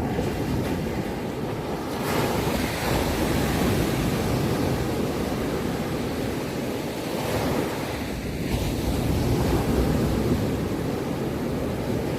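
Sea waves breaking and washing on a shore: a continuous wash of surf with no distinct tones, swelling about two seconds in and again a little later.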